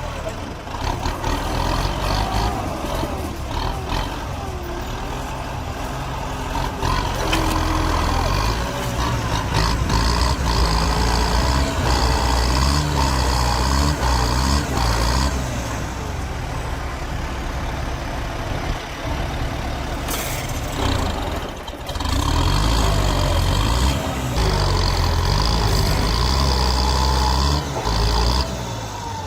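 Tractor diesel engine running continuously under load, hauling logs, with a brief drop in level about two-thirds of the way through.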